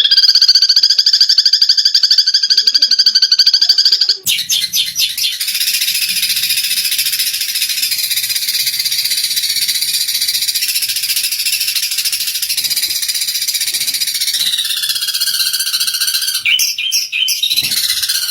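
Eurasian tree sparrows chattering in fast, continuous calls, the agitated calls of sparrows squabbling. About four seconds in, a fast, even trill gives way to a denser, busier chatter.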